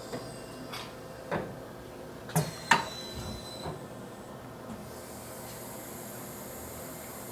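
Mitsubishi EA8M sinker EDM's shuttle-type electrode tool changer clicking and clunking during an automatic tool change, about six sharp knocks in the first four seconds over a steady machine hum. A faint high hiss comes in about five seconds in.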